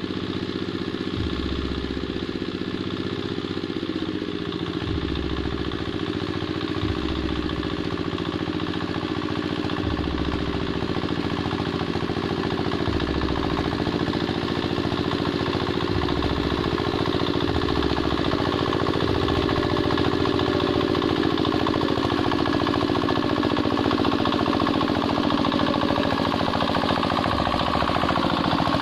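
Two-wheel hand tractor's engine running steadily under load while ploughing a wet rice paddy, getting a little louder in the second half.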